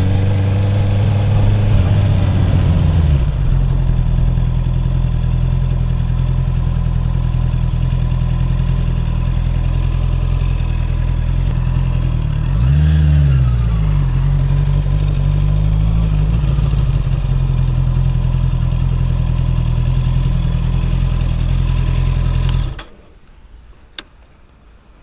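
Honda CB650R's inline-four engine through an Akrapovic exhaust, its revs falling back to a steady idle, with one quick throttle blip about halfway through. The engine sound drops away abruptly near the end.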